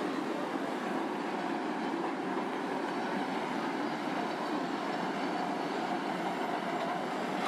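Steady ambient rush of noise, continuous and even, with no distinct events.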